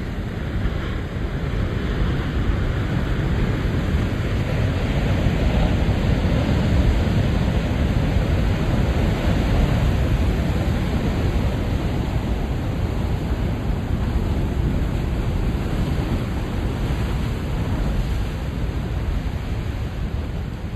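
Ocean surf breaking and washing in at high tide, a continuous rush of noise with a deep low rumble that swells about two seconds in and eases off slowly after about ten seconds.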